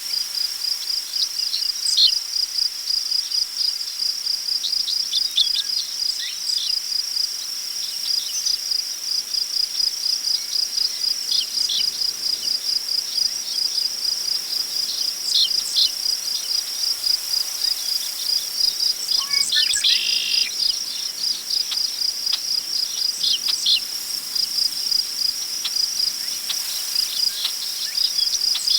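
Crickets chirping steadily in a fast, even pulse, with scattered short bird calls over it and a longer burst of bird calling about twenty seconds in. A faint wind rustle runs underneath.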